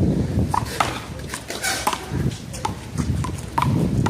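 One-wall handball rally: a small rubber handball smacking off hands, the wall and the concrete court in a string of short, sharp knocks at uneven spacing, over a steady low background rumble.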